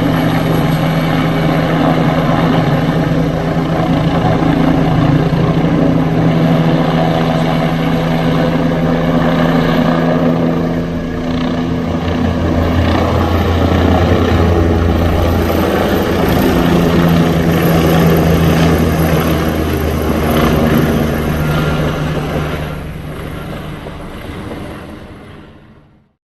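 Helicopter flying low overhead: a steady, loud rotor and engine sound that fades out over the last few seconds.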